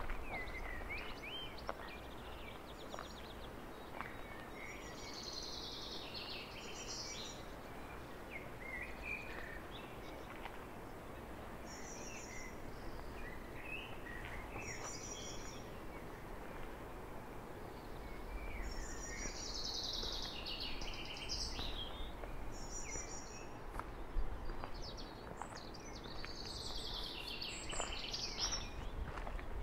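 Songbirds singing in short phrases of high chirps and trills, several times over, above a steady outdoor background noise.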